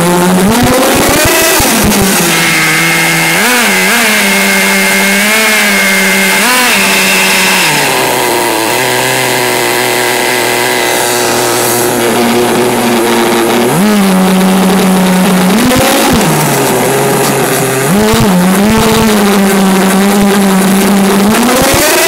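Small nitro glow engine of an RC monster truck revving up and down in repeated swells, settling to a lower steady note for several seconds in the middle before revving again.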